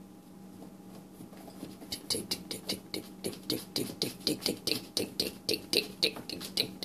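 Quick, even clicking from a cat working at the dishwasher door with its mouth or paws, about four to five clicks a second, starting about two seconds in, over a faint steady hum.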